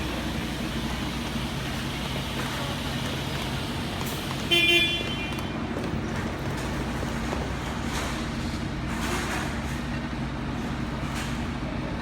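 Steady traffic noise with the low hum of idling vehicle engines, broken about four and a half seconds in by a short horn toot, the loudest sound.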